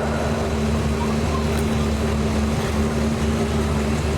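Engine of a pulling vehicle running at a steady speed, a constant low drone with a steady pitched hum.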